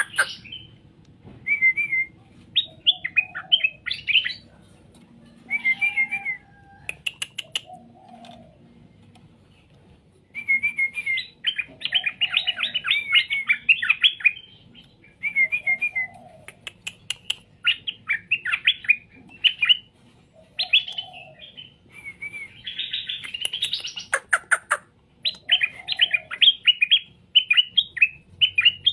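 Straw-headed bulbul (cucak rowo) singing: bursts of quick, rich warbled phrases, one after another with short pauses between. A few sharp clicks come in between the phrases.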